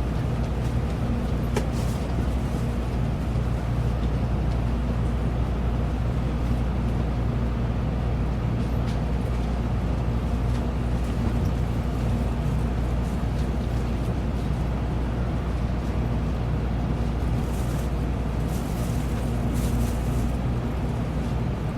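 Steady cabin noise of a Shinkansen bullet train heard from inside a passenger car: an even rumble with a constant low hum of several steady tones. A few brief hisses come near the end.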